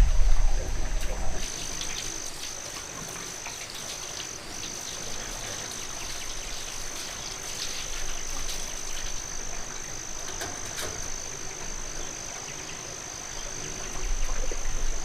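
Insects chirring outdoors in a steady, high-pitched drone that sets in about a second in and holds, with a low rumble at the start and again near the end.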